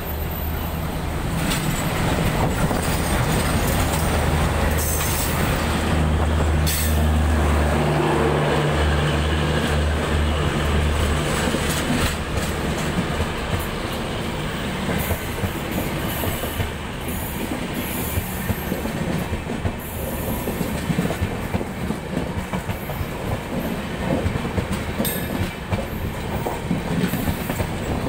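Express train passing close by: a diesel locomotive's engine drone dominates for about the first eleven seconds. Then the coaches' wheels clatter rhythmically over the rail joints as the carriages run past.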